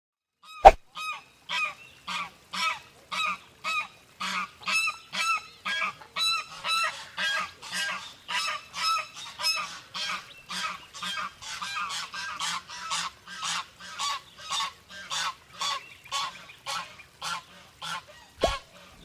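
A bird giving a long series of short, repeated calls, about two a second, each with a rich, overtone-laden tone, opened by a sharp click just before the first call.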